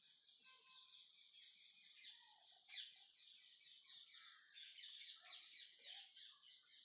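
Faint chorus of small birds chirping and twittering: many quick, high calls overlapping, loudest about three seconds in.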